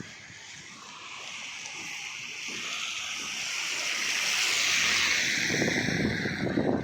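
A vehicle passing on a wet road: tyre hiss swells slowly over about five seconds, peaks, then begins to fade, with a low rumble near the end.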